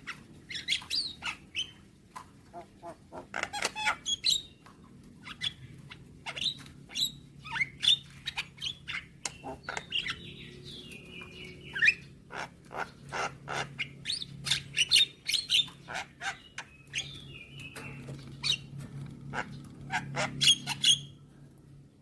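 Javan myna (jalak kebo) singing: fast runs of harsh, clicking notes broken by short whistles, with a warbling whistled phrase about ten seconds in. A faint steady low hum lies underneath.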